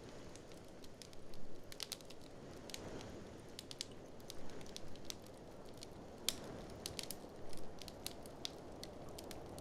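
Wood fire in a fireplace crackling, with sharp irregular pops and a few quick clusters of snaps, over a steady low rushing noise of blizzard wind.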